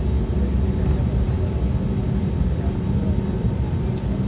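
Steady cabin noise of an Airbus A320neo on the ground before takeoff: a low rumble from the engines and air system with a constant hum, and a couple of faint clicks near the end.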